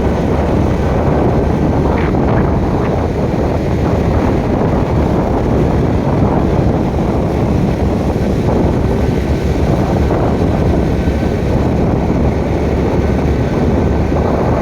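Steady loud rumbling of wind buffeting the microphone, with a faint thin steady tone in the second half.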